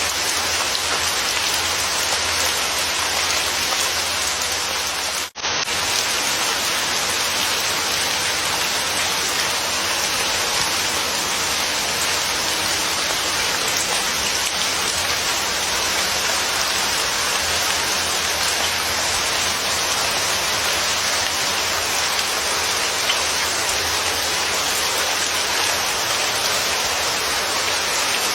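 Steady rain falling, an even dense hiss, broken by a brief dropout about five seconds in.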